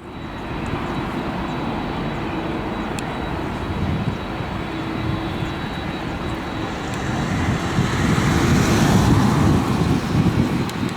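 Jet engines of a Boeing 787-10 Dreamliner airliner, a broad rumble with a faint steady whine, growing louder as the aircraft passes and loudest about eight to nine seconds in.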